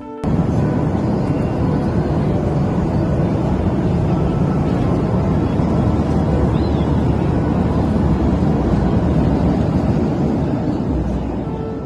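Steady loud rumble of a Boeing 737-800 heard from inside the passenger cabin, engine and airflow noise, cutting in abruptly at the start.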